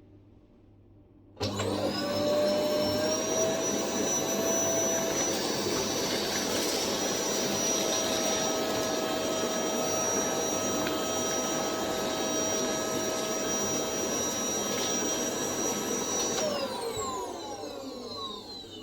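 Hoover Whirlwind Pets 1800 W bagless cylinder vacuum cleaner switched on about a second and a half in, its motor whine rising briefly to full speed and running steadily. Near the end it is switched off and the whine falls away as the motor spins down.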